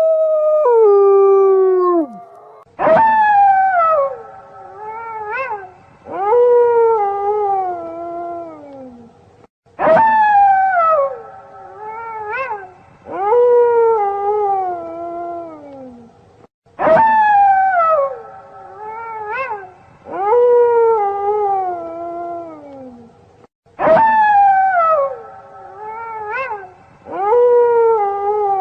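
Wolves howling: each group of a few howls starts suddenly, and every howl slides down in pitch. The same stretch of howls repeats about every seven seconds, like a looped recording.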